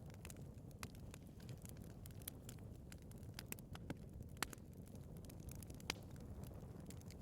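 Wood fire burning in a fireplace: a soft low rumble of the flames with irregular small crackles and pops, a couple of sharper pops in the second half.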